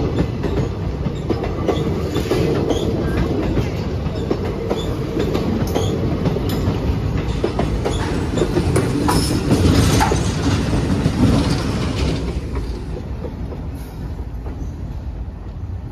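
Passenger train coaches rolling past close by: a steady rumble of steel wheels on rail with a rhythmic clickety-clack over the rail joints. The sound drops quieter about 13 seconds in.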